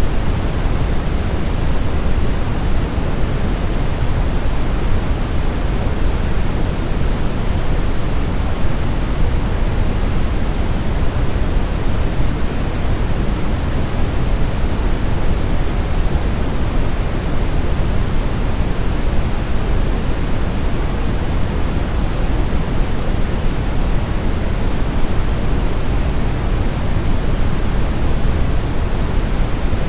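Steady, unchanging brown noise: a deep, even hiss strongest in the low end, with no tones or events.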